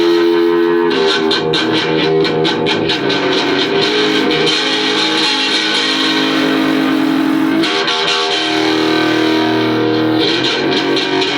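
Electric guitar playing a blues-rock part: held notes and chords, with a run of fast repeated picked strokes early in the passage.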